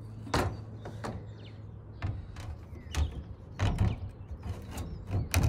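Irregular knocks and thumps on a van's sheet-metal body as a roof vent fan is worked into its cutout, about six strikes with the loudest near the end, over a steady low hum.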